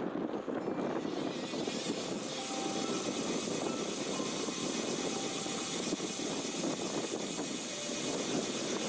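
Steady rush of wind and road noise while riding a road bike at speed.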